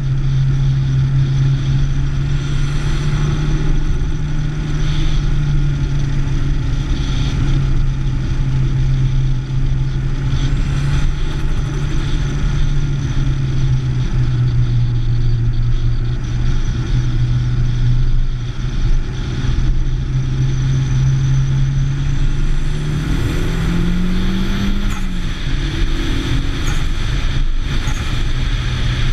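Nissan 240SX's SR20DET turbocharged four-cylinder engine holding a steady note under way, over a constant haze of road and wind noise. A little over twenty seconds in, the engine note rises in pitch for about two seconds, then drops back to the steady note.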